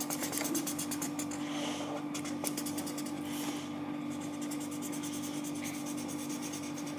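Quick back-and-forth scratching of a drawing tool on paper as the eyes of a drawing are colored in, with a steady low electrical hum underneath.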